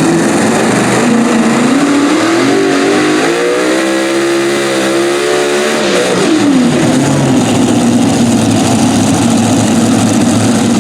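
Super modified pulling tractor's engine running loud, its pitch climbing over a few seconds, then dropping sharply about six seconds in and settling lower.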